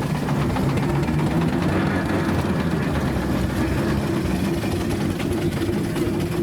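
An engine running steadily with a constant low hum, its pitch unchanging.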